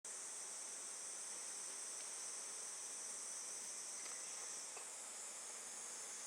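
Steady, high-pitched chorus of insects, a continuous shrill hiss-like trill with a couple of faint ticks partway through.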